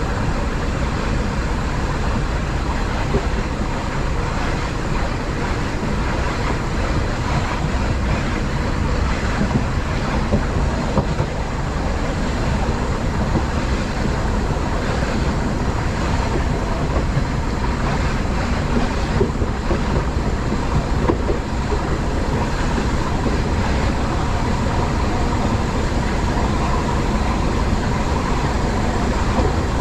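Diesel passenger train running steadily along the line, heard from the driver's cab: an even rumble and rolling noise with a faint steady tone.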